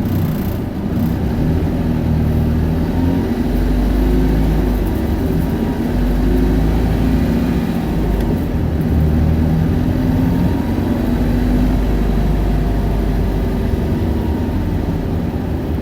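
Isuzu Erga city bus's four-cylinder turbo diesel engine running at high revs while accelerating, heard from inside the passenger cabin, its pitch drifting up and down.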